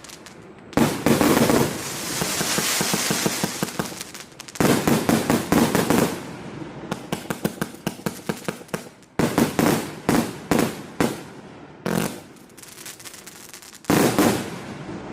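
A 1.2-inch, 100-shot consumer fireworks cake firing: loud volleys of rapid sharp shots come in clusters every few seconds, with a hissing crackle between them.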